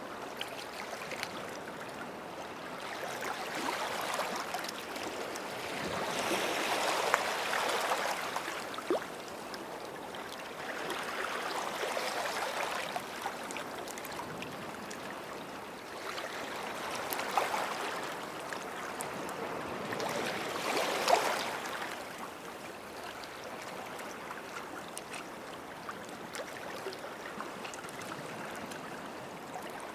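Small sea waves washing up the shore at the water's edge, each one swelling and fading over a few seconds, about five in a row, with small crackles as the water runs over the beach.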